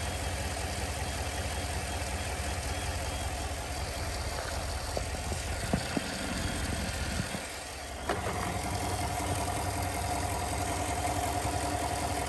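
GMC Yukon V8 engine idling steadily, heard close up under the hood shortly after start-up. A few light clicks come about halfway through, then a steady higher whine joins in for the rest.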